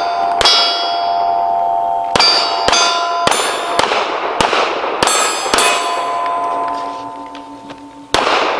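A string of about nine pistol shots in quick succession, most followed by the ringing of hit steel target plates. A longer pause comes before the last shot near the end.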